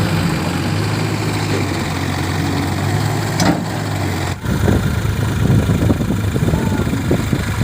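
Heavy diesel engine of earthmoving machinery running, steady at first. A little past halfway it turns rougher and more uneven, with a brief sharp sound just before the change.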